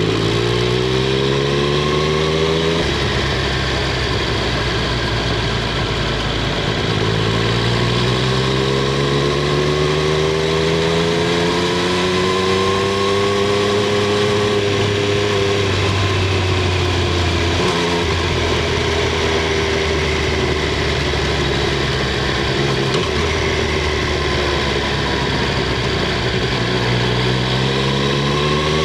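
Triumph Street Triple 765 R's inline three-cylinder engine and exhaust under way. The engine climbs in pitch under acceleration, breaks off for an upshift about three seconds in, and climbs again. It eases off and slowly drops through the middle, then picks up once more near the end.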